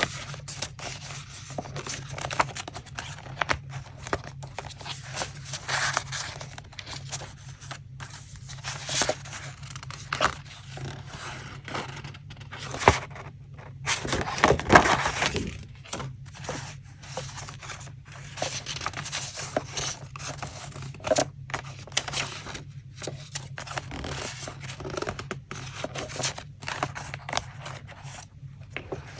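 Paper being handled for a collage: rustling, scraping and tearing in irregular strokes, with a louder flurry about halfway through.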